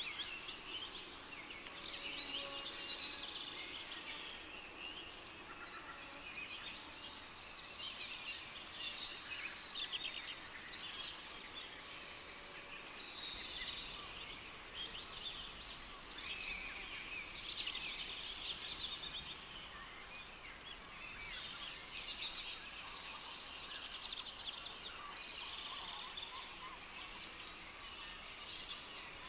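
Cricket chirping in a steady pulse of about three chirps a second, pausing briefly about two-thirds through, over rainforest birds calling.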